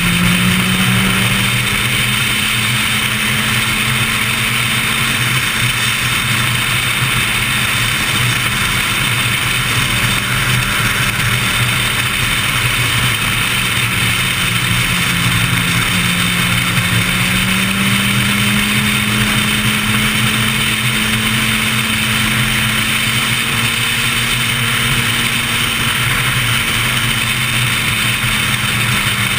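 Inline-four sport motorcycle engine running at road speed, its note rising slowly about halfway through and easing off near the end, over a steady rush of wind.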